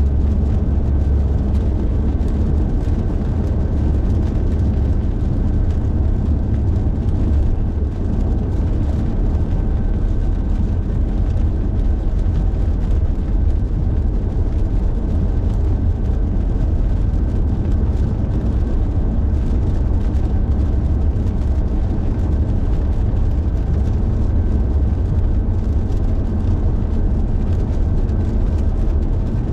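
Car driving at highway speed: a steady low rumble of road, tyre and engine noise with a faint steady whine, unchanging throughout.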